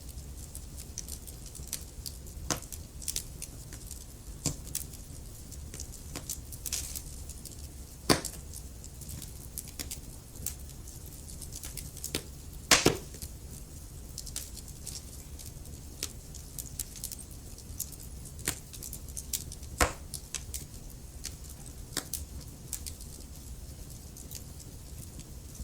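Wood fire crackling in a fireplace: irregular sharp pops and snaps over a low steady rumble. The loudest pop comes about halfway through.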